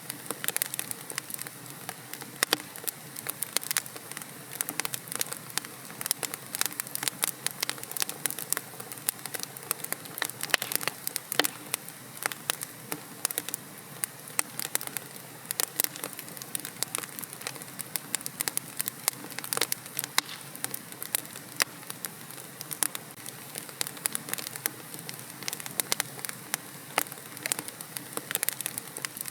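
Wood fire crackling in a fireplace: a steady hiss of burning under dense, irregular sharp pops and snaps.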